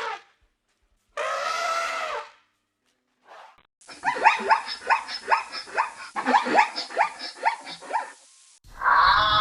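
Animal calls: one drawn-out call lasting about a second, then, after a pause, a rapid run of short calls that drop in pitch, about three a second, lasting several seconds.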